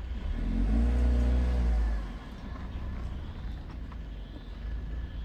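Front-wheel-drive Audi A6's engine revving hard for about two seconds as the car strains on a steep dirt climb. Its pitch rises and then eases, and it drops back to a lower, steady run.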